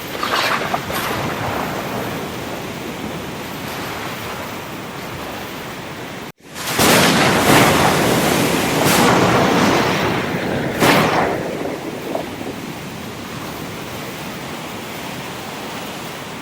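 Ocean surf, a steady wash of waves with several loud wave crashes in quick succession just after a brief drop-out in the sound about six seconds in, then settling back to a steady wash.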